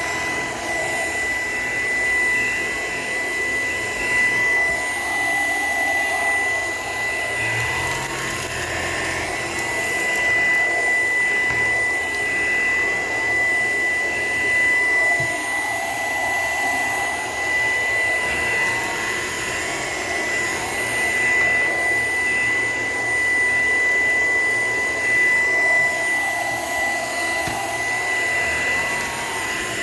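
Shark PowerDetect vacuum running steadily with a high, constant motor whine, its sound swelling and easing every few seconds as it is pushed back and forth.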